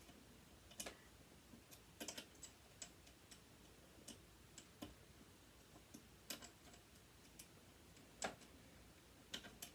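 Faint, irregular light clicks and taps of small metal parts and hand tools being handled while the sewing machine motor is dismantled, with a sharper click near the end.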